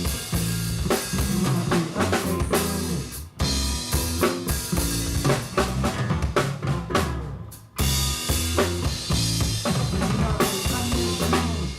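Live band music driven by a full drum kit with kick drum and snare, over steady low notes. The band stops short twice, about three seconds in and again near eight seconds, and comes straight back in each time.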